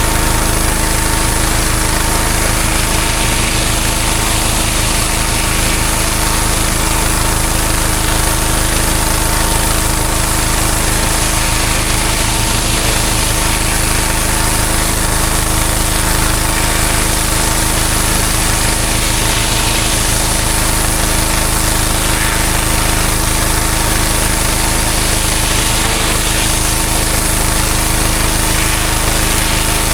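Pressure washer running steadily: a constant engine drone under the hiss of a high-pressure water jet spraying block paving.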